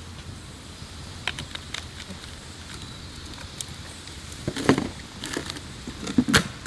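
Scattered sharp clicks and knocks, like objects being handled, with louder clatters about four and a half seconds in and again near the end, over a steady low rumble.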